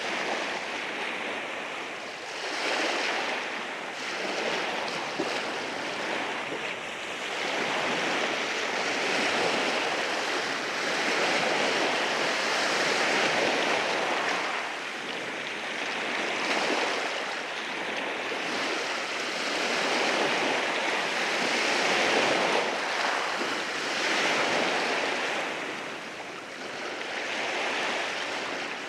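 Waves washing in over rocks on a shoreline, a continuous hiss of surf that swells and eases every few seconds as each wave breaks and drains back.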